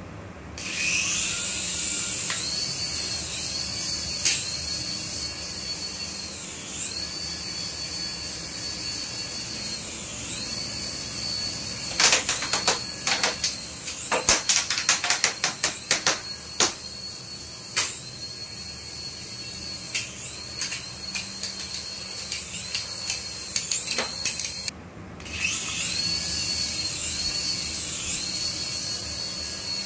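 High-pitched whine of a toy RC aircraft's small electric motor, rising and falling in pitch as the throttle changes. A run of sharp clicks and clatter comes from about 12 to 17 seconds in. The motor cuts out briefly near 25 seconds, then spins up again.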